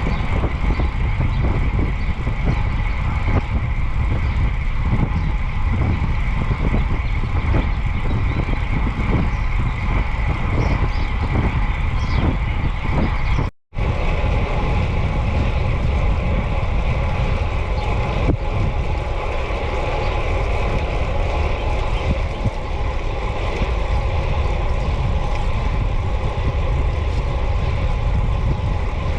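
Wind buffeting the microphone of a cyclist riding along a road, a loud low rumble throughout. The sound drops out for an instant about halfway through, and a steady hum runs under the wind in the second half.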